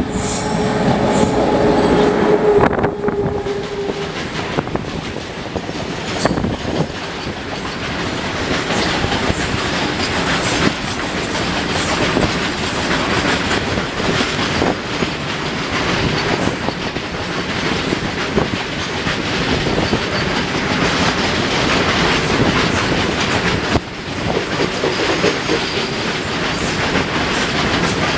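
A WAG-9H electric freight locomotive passes close by, pulling a long train of open box wagons whose wheels clatter steadily over the rail joints. A steady tone sounds for the first few seconds as the locomotive goes by, and after that the wagons' rolling clatter carries on unbroken.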